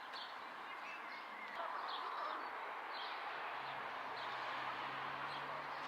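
Outdoor ambience: a steady background hiss with small birds chirping repeatedly, and a faint low hum that comes in about midway.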